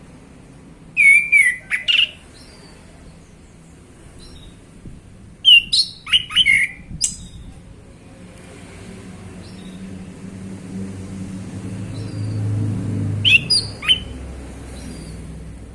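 Male chestnut-capped thrush singing: three loud bursts of quick whistled phrases with gliding notes, separated by pauses with a few faint high notes. A low rumble swells in the background in the second half.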